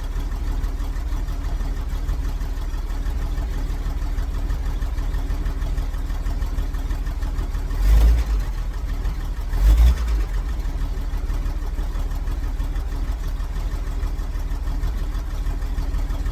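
1963 Jeep Gladiator's engine idling steadily on a cold start after hard cranking, with two brief louder low surges about eight and ten seconds in.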